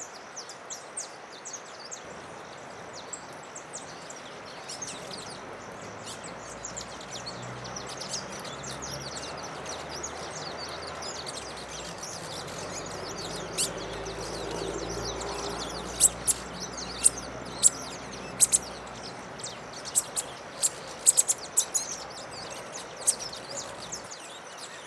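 Wild songbirds chirping, with short, sharp, high notes that come thick and loud in the second half, over a steady background hiss.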